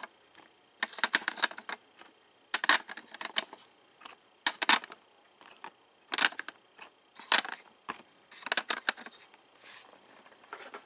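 Small clicks and clinks in short clusters about every one to two seconds as the loose wheel sets of a model flat car's wheel load are handled and fitted onto the car.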